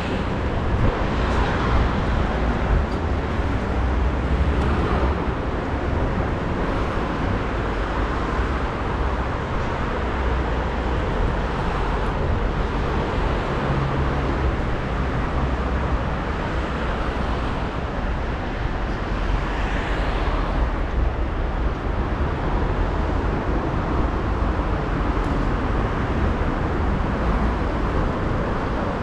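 City street traffic: a steady low rumble of passing vehicles, with a few cars swelling louder as they go by.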